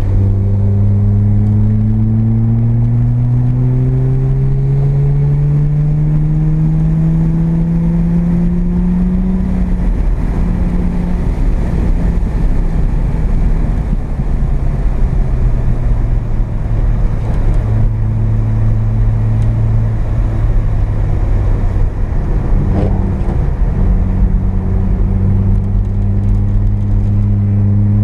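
Mazda RX-7's carbureted 12A rotary engine, heard from inside the cabin, pulling steadily higher in revs for about ten seconds, then easing back and running at lower, fairly steady revs before rising again near the end. A steady hiss of road and tyre noise runs beneath it.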